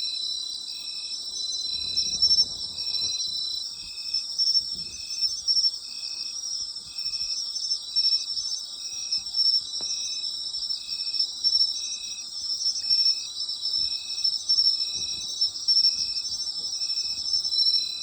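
Autumn night chorus of insects: a dense, continuous high trilling, with one insect chirping in short, evenly spaced notes about every two-thirds of a second.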